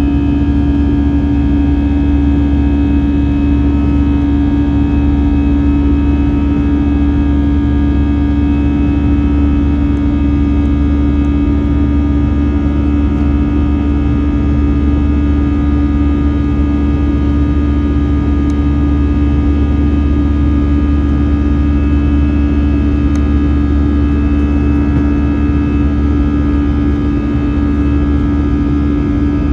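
Jet engines of an Airbus A321 running steadily, heard from inside the passenger cabin as a constant loud drone with a strong low hum and no change in level.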